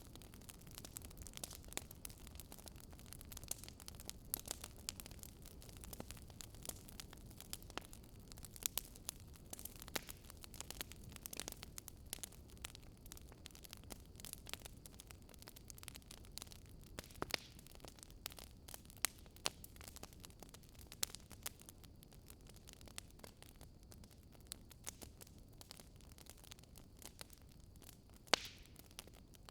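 Wood fire crackling in a fireplace: frequent irregular pops and snaps of burning logs over a low, steady rumble of flame, with a few louder snaps scattered through.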